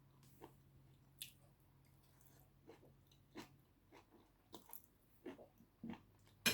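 Close-miked chewing and mouth sounds of a person eating: soft, irregular smacks and small clicks, with a louder smack near the end.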